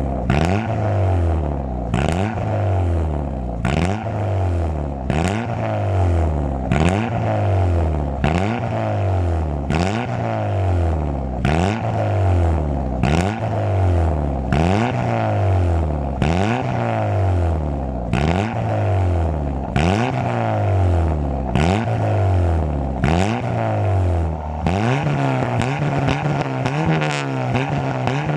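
A Ford Zetec four-cylinder engine, swapped from a Focus into a Mk4 Fiesta, is revved in quick repeated throttle blips, about one a second, each rising sharply and dropping back. Near the end it is held at a steadier, higher speed.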